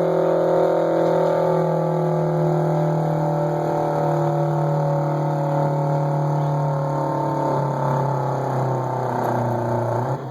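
Tractor engine pulling hard under load, its pitch sinking slowly as it lugs down, then dropping away just before the end.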